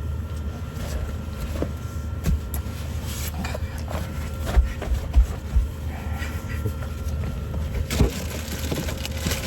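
Campfire wood crackling and popping in scattered sharp snaps over a steady low rumble.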